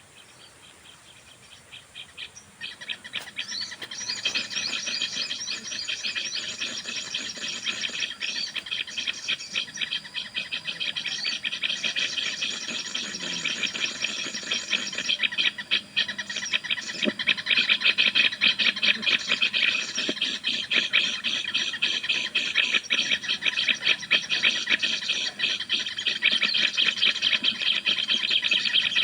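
Rapid, high-pitched bird chirping and chattering, a dense run of quick repeated notes. It starts faintly about two seconds in and grows louder, with a further rise after about seventeen seconds.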